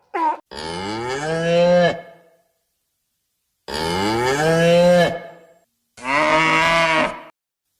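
Cattle mooing: three long moos, each rising then falling slightly in pitch.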